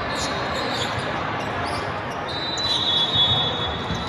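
Gym ambience during a volleyball match: a steady murmur of players and spectators, with the thuds of the ball being hit and bouncing on the hard floor. A steady high tone runs through the second half.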